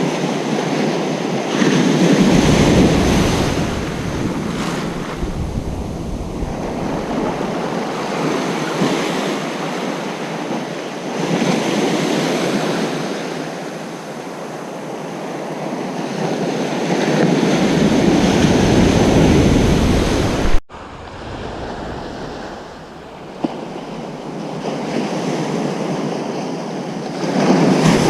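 Ocean surf breaking and washing up a beach, swelling and fading several times. Wind rumbles on the microphone in gusts under the louder waves. About two-thirds of the way through, a sharp click is followed by an abrupt drop in level, like a cut in the recording.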